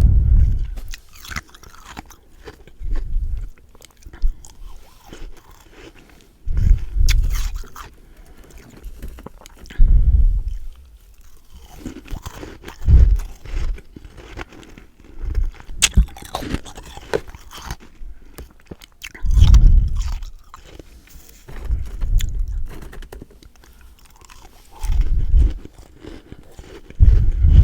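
Close-miked bites and crunching chews of freezer frost, about ten loud crunches roughly every three seconds, each with a deep thump, with quieter crackling chewing in between.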